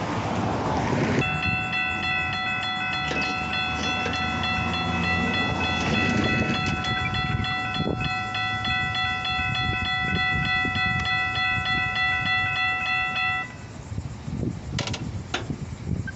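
Railroad crossing bell ringing in fast, even strokes, starting about a second in and cutting off near the end, over the low rumble of a train running by.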